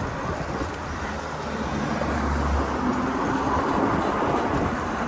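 Street traffic and riding noise with a steady rumble, and a low engine hum from a passing vehicle about two seconds in.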